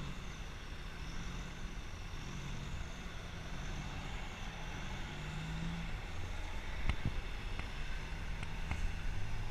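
Motor vehicle engine running with a wavering pitch, a faint high whine over it, and a few sharp knocks in the second half.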